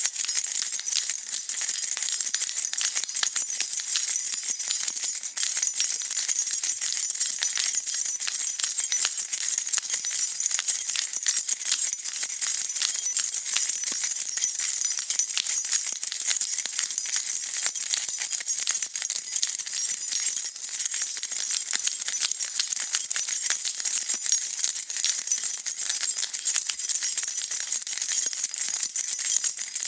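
A bunch of metal keys jingling continuously, a dense steady stream of bright metallic clinks as they are shaken.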